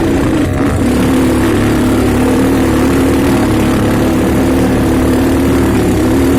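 Motorcycle engine running at a steady speed, a loud even drone that holds its pitch throughout.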